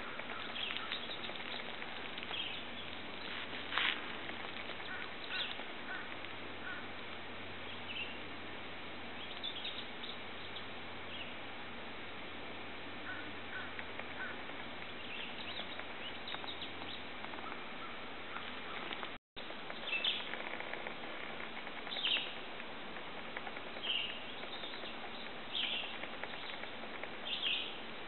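Short, high bird chirps every second or two over a steady outdoor hiss, with a faint low hum that fades out about two-thirds of the way through.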